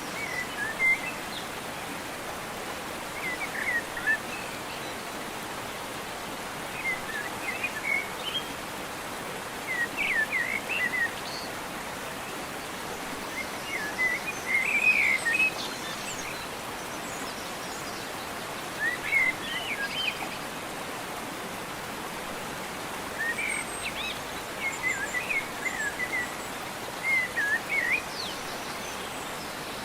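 Birds chirping in short bursts of quick, twittering calls every few seconds, over a steady outdoor hiss.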